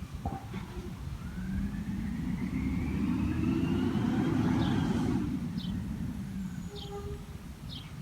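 Peterbilt 320 garbage truck's engine revving up with a rising whine that builds for a few seconds, then dropping back. A few short high chirps come near the end.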